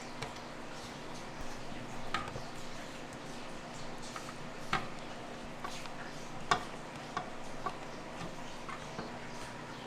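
Kitchen work: scattered light clicks and taps, a few seconds apart, the sharpest about two thirds of the way in, over a steady low hum.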